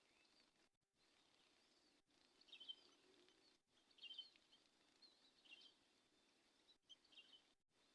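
Faint, short bird chirps, four brief clusters a second or so apart, over a very quiet background hiss.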